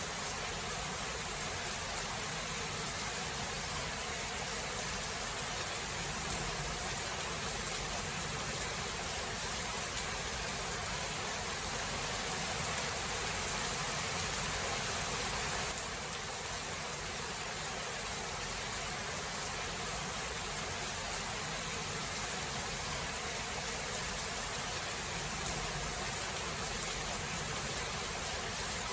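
Steady rain falling in a thunderstorm: a dense, even hiss with a few faint sharper patters. The level eases slightly about sixteen seconds in.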